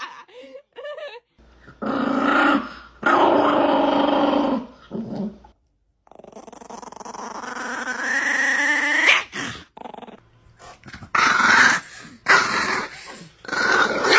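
A dog growling and whining in several separate bouts, including one long call that rises steadily in pitch, then a run of short loud calls near the end.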